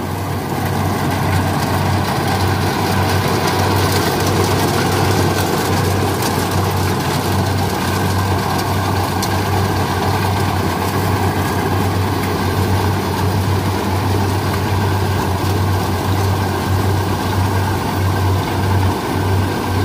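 Kubota rice combine harvester running steadily under load: a constant low diesel engine drone with a dense mechanical rush of the cutting and threshing machinery over it.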